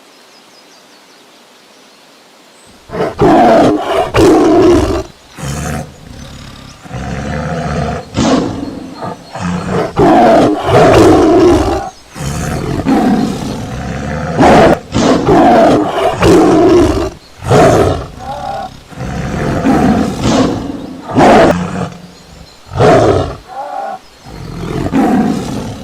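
Tiger roaring in a long series of loud calls, one after another, starting about three seconds in, after a faint outdoor background hiss.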